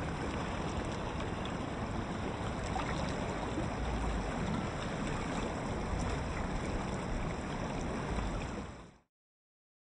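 River water rushing over rocks in shallow pocket water: a steady hiss with a few low rumbles. It cuts off suddenly about nine seconds in.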